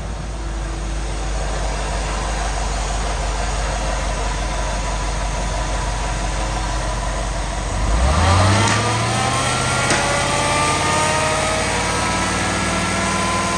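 1999 GM/Chevrolet heavy-duty 5.7L V8 engine idling steadily, then revved about eight seconds in and held at a raised, steady speed.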